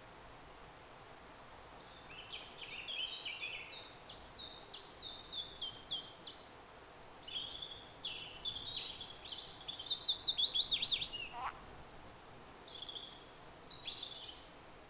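A songbird singing: fast runs of short, high, downward-sliding notes in long phrases, pausing about eleven seconds in and starting again near the end, over steady faint background noise.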